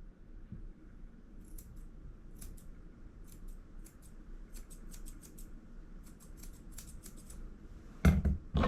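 Grooming scissors snipping the hair around a puppy's eyes: runs of quick, light snips. Two louder short sounds come near the end.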